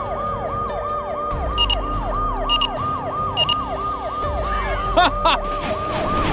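Cartoon police siren wailing fast, rising and falling about three times a second. Three short high beeps sound about a second apart partway through.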